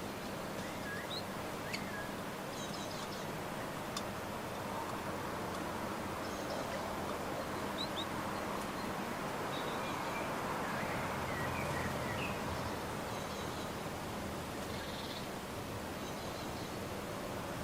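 Garden birds giving short, scattered chirps over a steady outdoor background hiss, with two sharp ticks in the first few seconds.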